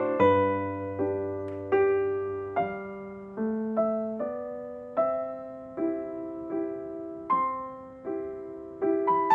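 Slow, gentle piano music: notes and chords struck about once a second, each ringing and fading before the next.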